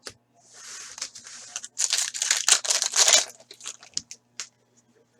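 A 2015-16 Upper Deck Series 1 hockey card pack's foil wrapper is torn open with a run of loud ripping, followed by crinkling and small crackles as the wrapper is handled.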